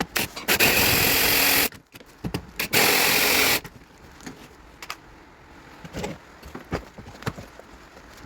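A cordless power driver run in two bursts of about a second each, undoing the fixings of the door's airbag unit, followed by light clicks and knocks of handling.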